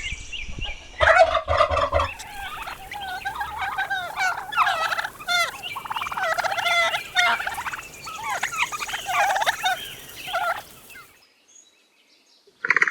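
Domestic turkeys gobbling: repeated fast, warbling gobble calls that stop a couple of seconds before the end.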